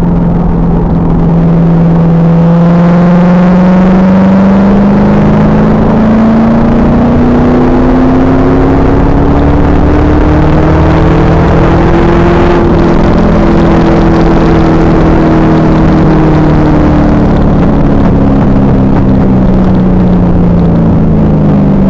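2000 Pontiac Trans Am Firehawk's LS1 V8 through its SLP exhaust, under load on track: the engine note climbs steadily for about twelve seconds, then slowly falls back. The recording is loud and distorted, with heavy wind and road noise under the engine.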